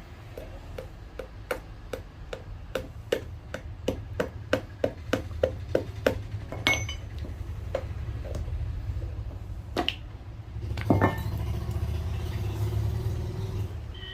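Cobbler's hammer tapping on a shoe sole: a run of light, even blows about three a second that grow louder, then a few separate heavier knocks, the loudest about eleven seconds in. A steady low traffic rumble runs underneath.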